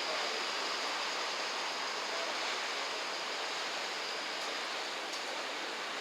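Steady rushing noise of river water, even and unbroken.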